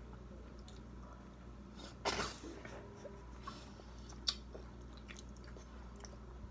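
Quiet eating sounds at a table during a crab-leg meal: faint clicks and small knocks, with one short noisy burst about two seconds in.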